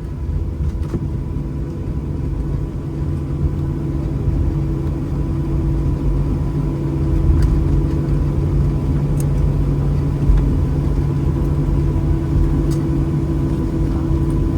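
Boeing 737-800's CFM56-7B engines heard from inside the economy cabin while taxiing at low power after landing: a steady low rumble with a few steady whining tones, slowly growing a little louder.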